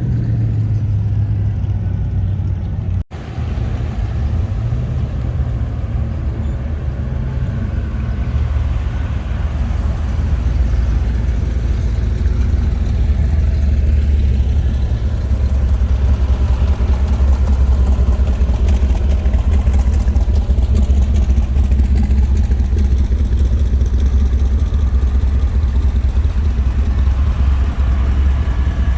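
Car engine running low and steady, getting louder about ten seconds in, with a brief cut in the sound about three seconds in.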